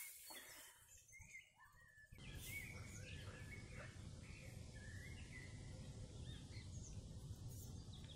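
Faint songbird chirps and short warbles over a quiet outdoor background. A steady low rumble sets in about two seconds in.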